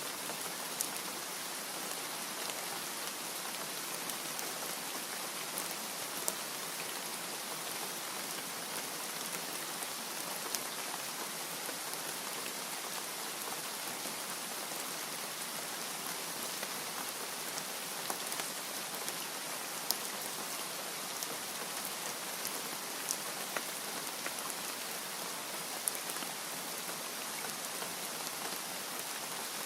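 Steady rain falling on a surface: an even hiss, with scattered louder drops ticking every few seconds.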